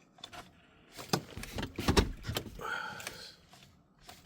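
A few sharp clicks and knocks from handling the controls inside a Chevy Trailblazer whose engine will not start. The loudest knock comes about 2 seconds in, and there is no engine running.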